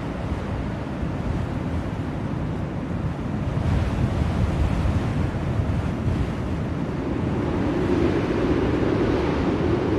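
Blizzard wind blowing in a continuous low rush, with gusts swelling louder about four seconds in and again near the end.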